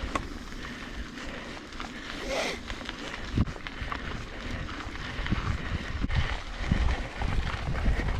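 Mountain bike being ridden on a wet dirt trail: tyre noise with scattered clicks and rattles from the bike, and wind rumbling on the microphone.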